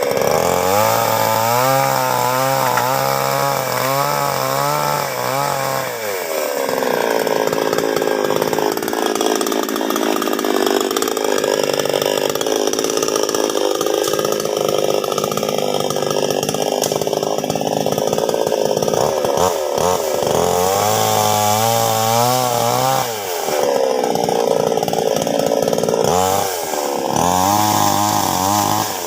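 Two-stroke chainsaw cutting wood, its engine alternating between long stretches at high revs and shorter spells back at low, wavering revs, several times over.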